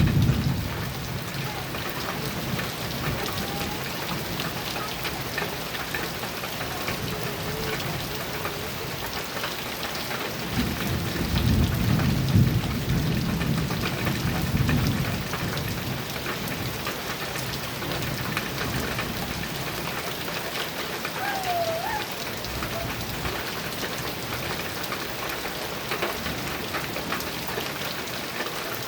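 Heavy rain falling steadily on a metal roof, with a low rumble of thunder rolling in about ten seconds in and lasting some five seconds.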